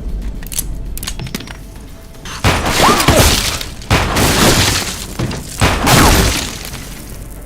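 Film action soundtrack: three loud crashes with shattering and breaking, one after another about a second and a half apart, with music underneath.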